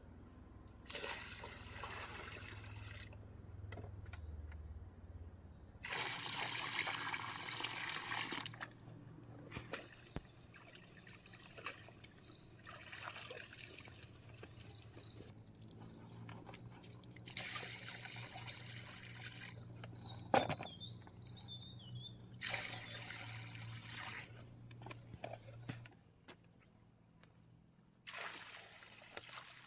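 Water being poured out in repeated spurts, about six pours of one to three seconds each, with short bird chirps between them.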